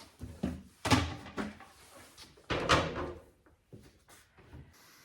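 Two loud bangs about a second and a half apart, with a few lighter knocks around them, like a door or a lid banging shut.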